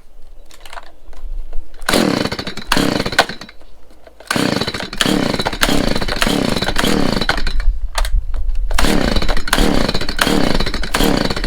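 Stihl MS170 two-stroke chainsaw cutting into a large timber. The saw comes in at full throttle about two seconds in and runs in three long stretches, easing off briefly twice between them.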